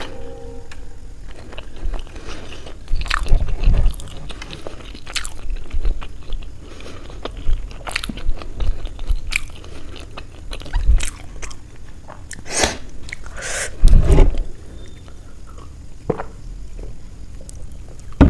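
Close-miked chewing and biting of soft steamed paneer momos: wet, irregular mouth sounds, louder for a moment about 3 and 14 seconds in.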